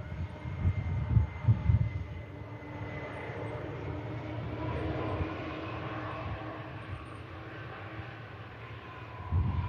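Boeing 747's jet engines running as it comes in to land: a steady whine with several tones that slowly shift in pitch. Wind gusts buffet the microphone in the first couple of seconds and again near the end.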